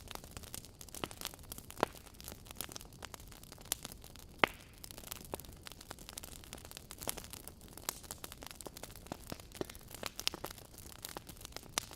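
Wood fire burning in a fireplace, crackling with irregular pops over a steady hiss; the two loudest pops come about two and four and a half seconds in.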